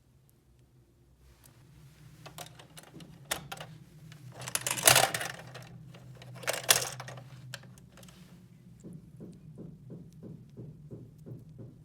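Small plastic toy parts being handled: scattered clicks and two louder clattering rattles, then an even run of clicks about three a second near the end.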